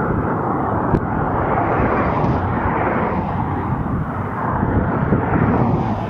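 Steady rushing wind on the microphone of an e-bike riding at speed, with a short click about a second in.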